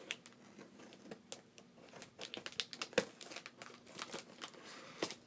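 Cardboard shipping box being cut open with scissors: packing tape and packing material crackling and crinkling in irregular little clicks, with one sharper snap about three seconds in.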